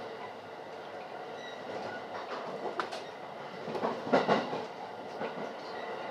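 Electric rapid commuter train running, heard from inside the car: a steady rumble with groups of wheel clacks over the rail joints, loudest about four seconds in.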